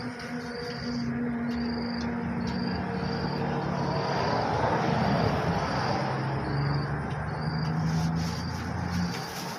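A vehicle passes on the road: its engine hum swells to a peak of tyre and road noise about halfway through, falling in pitch as it goes. An insect chirps in short repeated pulses, about two a second, throughout.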